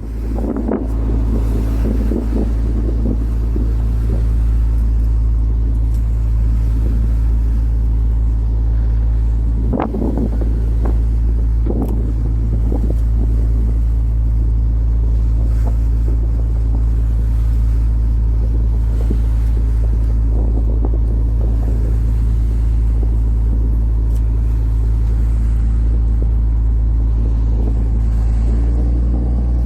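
Fishing boat's engine running with a steady low drone. A few knocks and rattles come near the middle, and the engine note shifts slightly near the end.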